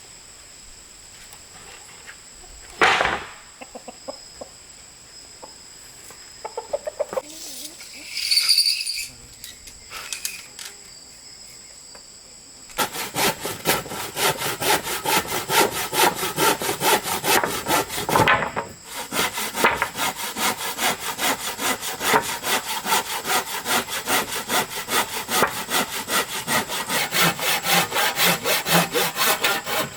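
Hand saw cutting through wood in quick, even back-and-forth strokes, starting suddenly about a third of the way in and running on steadily. Before it there is a single sharp knock, and a rooster crows.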